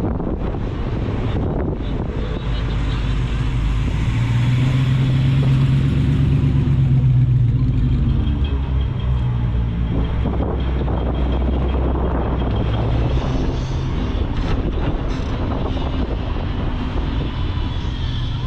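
A car engine running with a deep, steady rumble as the car moves slowly. It grows loudest a few seconds in and then eases off.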